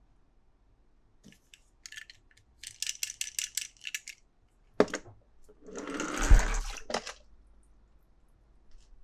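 Small hard plastic or metal pieces clicking and rattling in a quick run of about eight clicks, then a single sharp click, then a rustling scrape with a dull thump in the middle and a click at the end: toy cars and their packaging being handled.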